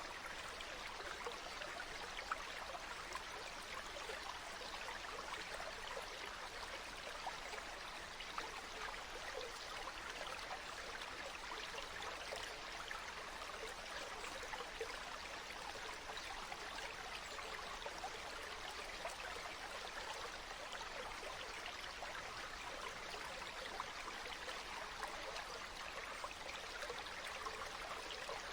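Water flowing steadily: an even rushing hiss full of small splashes that does not change.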